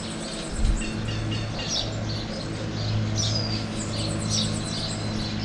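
Birds chirping and calling in many short notes, with a fast high trill, over a steady low hum.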